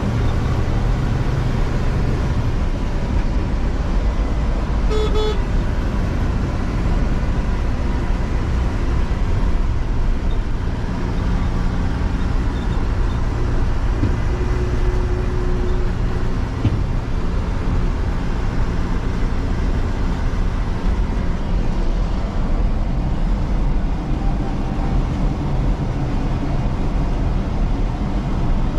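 JCB 3DX backhoe loader's diesel engine running steadily while working, with a short horn toot about five seconds in.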